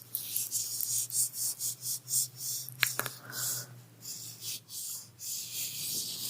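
Repeated soft scratchy rubbing strokes, about two to three a second, with one sharp click about three seconds in, over a steady low hum.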